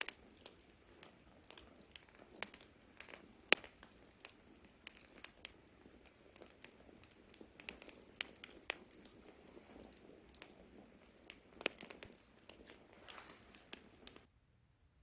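Wood campfire crackling, with irregular sharp pops and snaps over a low hiss. The sound cuts out abruptly about a second before the end.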